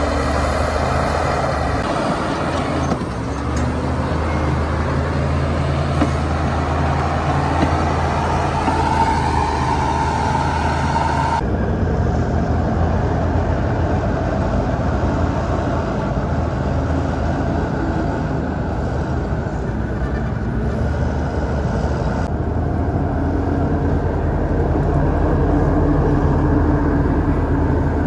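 Heavy diesel earthmoving machinery, bulldozer and dump-truck engines, running steadily under load, with a steady whine in the middle part of the first stretch. The sound shifts abruptly twice, about a third and two-thirds of the way through.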